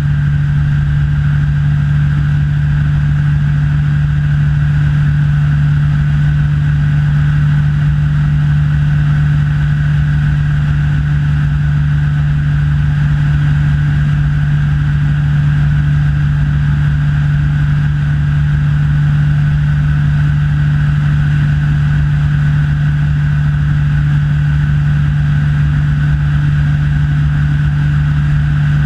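Rans S6 light aircraft's engine and propeller droning steadily in level flight, one unchanging loud hum.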